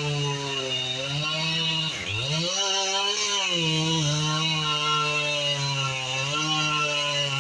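Two-stroke chainsaw running at speed. About two seconds in its pitch dips sharply, then climbs back higher and wavers before settling.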